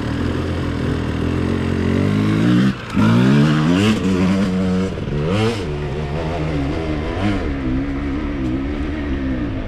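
Dirt bike engine running under throttle, its revs rising and falling several times, with a brief cut in the sound just before three seconds in.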